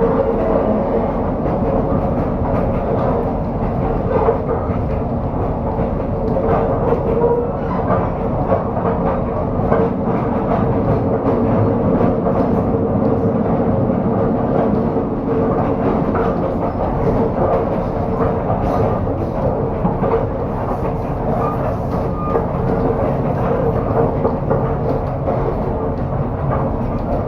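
Overnight passenger train running on the rails: a steady rumble with a constant hum and irregular knocks from the wheels and carriage.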